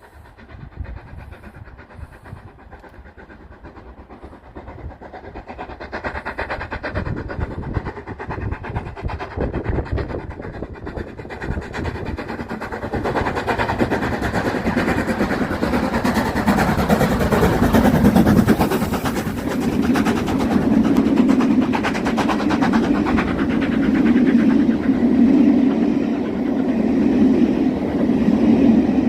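LMS Stanier Black Five steam locomotive 44871 and its train approaching and passing, with the wheels running on the rails. It grows louder from about six seconds in and is loud from about thirteen seconds on.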